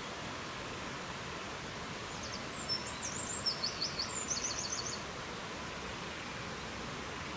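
Steady rushing outdoor noise with a small songbird singing one short phrase of high, quick notes and trills, starting just over two seconds in and lasting about two and a half seconds.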